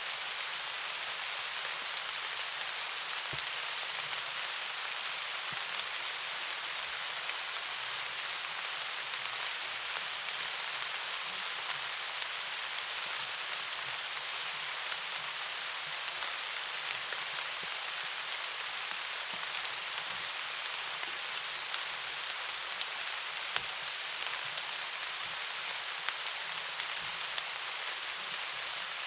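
Steady rain falling, an even hiss with occasional faint ticks.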